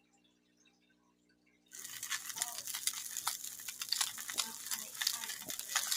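Food sizzling and crackling in a hot frying pan, a dense spatter of small pops that starts abruptly about two seconds in after a faint hum.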